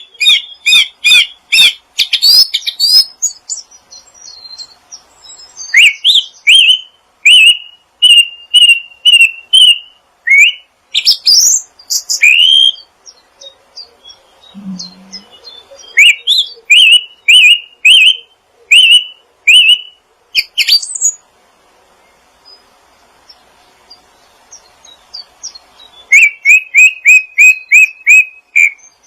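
Small songbirds chirping in rapid series of short, sharp notes repeated several times a second, broken by pauses and falling silent for about five seconds past the middle before a fast run resumes near the end.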